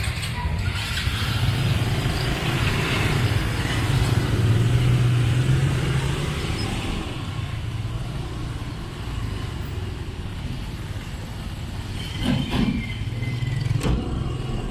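Motorbike and vehicle engines running at a ferry landing, a steady low hum that swells about four to six seconds in, with a few short knocks near the end.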